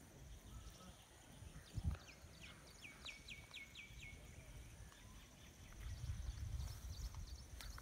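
Faint outdoor ambience: a bird gives a quick run of about six short, downward-sweeping notes, ending in a brief held note, over a steady high insect buzz. There is a single soft thump early on, and a low rumble on the microphone builds in the last couple of seconds.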